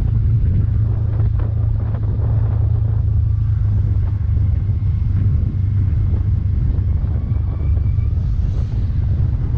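Wind buffeting the microphone over a Bajaj Pulsar N160's single-cylinder engine running steadily while the motorcycle is under way, a constant low rumble.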